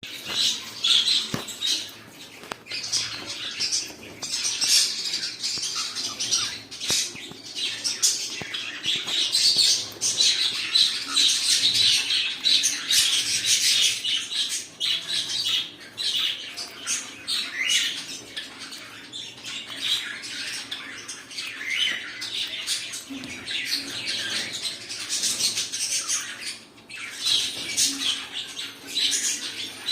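Pet cockatiels chirping and squawking, with short high calls overlapping almost without pause.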